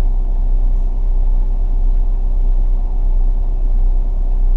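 Car engine idling, a steady low rumble with a faint constant hum, heard from inside the car.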